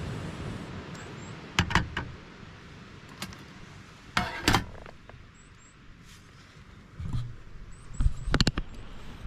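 Several short knocks and clatters in four quick clusters, over a low steady rumble.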